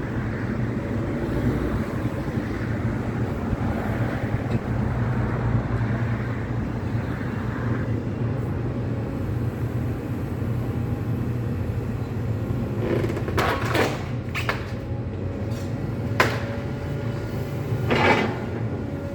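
Heavy tracked excavator's diesel engine running steadily during demolition, with a few loud crunching clanks of debris or the machine's attachment in the second half.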